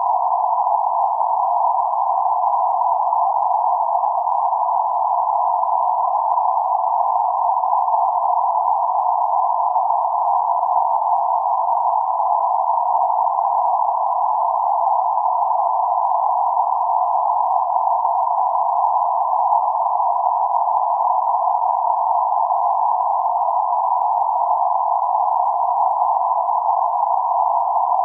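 Steady band-limited noise centred around 848 Hz, a constant hiss confined to a narrow band between roughly 500 Hz and 1.4 kHz, with no highs or lows.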